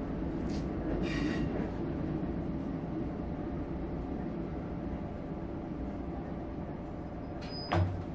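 KiHa 54 diesel railcar running along the track, heard from inside its rear cab. The rumble gets gradually quieter, with a brief high wheel squeal about a second in and a short sharp knock near the end.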